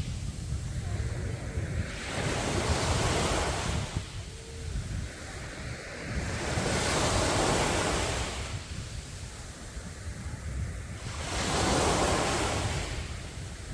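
Sea waves breaking on a beach, three swells rising and washing in a few seconds apart, with wind rumbling on the microphone.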